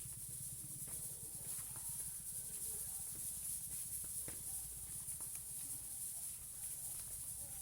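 Steady high-pitched hiss over a low rumble, with a few faint short chirps from parrots scattered through.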